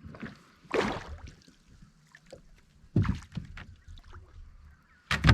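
Knocks and bumps on a small fishing boat, with a short rush of noise about a second in and a cluster of loud knocks near the end.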